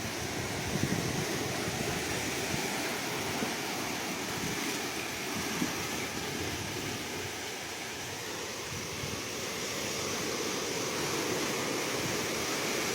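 Ocean waves washing ashore in a steady, continuous surf, with slow swells in loudness, and some wind on the microphone.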